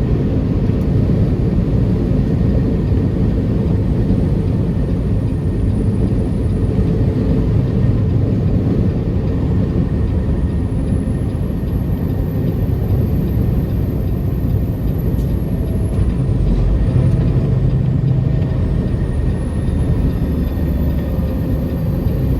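Semi-truck's diesel engine and road noise heard from inside the cab while driving: a steady low rumble. A faint high whistle rises and falls a few times over it.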